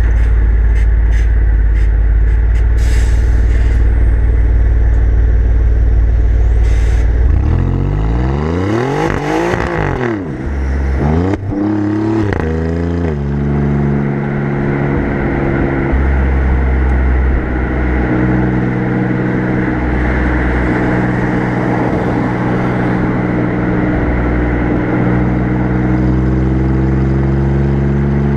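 Alfa Romeo Giulia Quadrifoglio's twin-turbo V6 and exhaust heard close to the tailpipe: a steady low rumble, then about seven seconds in the engine revs up hard twice, pitch climbing and dropping at the shifts. It then settles into a steady cruising note that rises slowly near the end.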